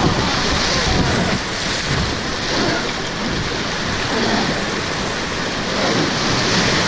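Rushing river water and spray from a boat running rapids, a steady loud rush of noise, with faint voices beneath it.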